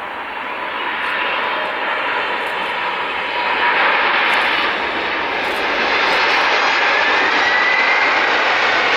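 Jet engines of an Atlas Air Boeing 747-400F, a steady rushing roar that grows louder, with a faint whine rising in pitch near the end.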